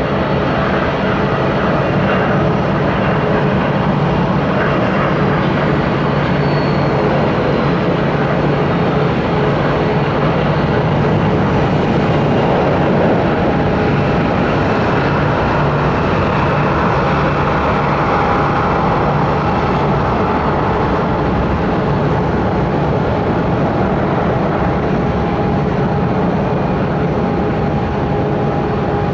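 Airbus A320 jet airliner landing: steady jet engine noise with a fan whine held on a couple of tones, swelling a little midway.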